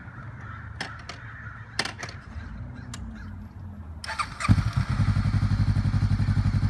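Honda CB500X parallel-twin motorcycle engine with an aftermarket exhaust. There is a quiet low hum and a few clicks at first; about four and a half seconds in the engine fires and idles with a loud, even, low pulse.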